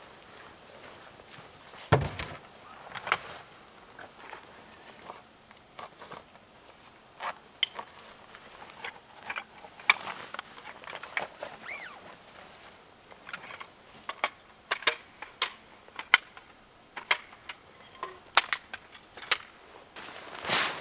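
Irregular light clicks and knocks of camping gear being handled during tent setup, with one heavier thump about two seconds in.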